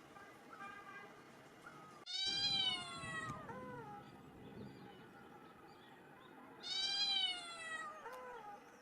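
Kitten meowing: two loud, drawn-out meows about four and a half seconds apart, each followed by a shorter falling mew, with faint high calls between.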